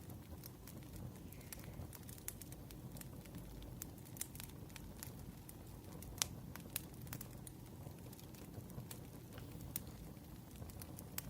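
Firewood burning, with irregular crackles and pops over a low steady rumble; the sharpest pop comes about six seconds in.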